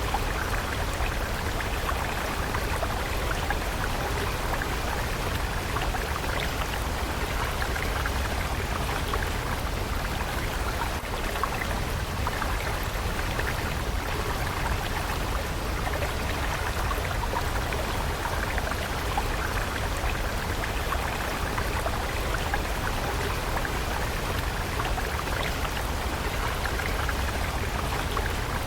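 Running water of a stream, a steady babbling and splashing with no change in level.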